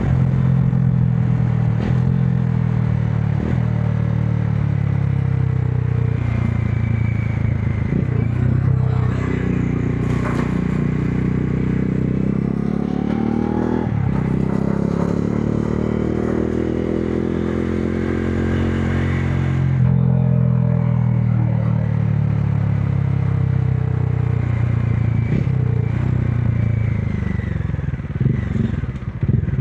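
The single-cylinder engine of a Modenas Dominar 400 motorcycle running while riding. The revs climb steadily for several seconds in the middle, drop suddenly about twenty seconds in, and then hold steady again.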